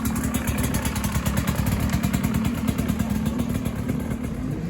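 A combustion engine running steadily with a rapid pulsing beat, loud and close.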